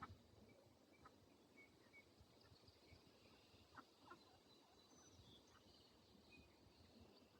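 Faint farmyard sound of ducks and chickens eating: scattered soft pecking taps, with a few short, high, faint chirps.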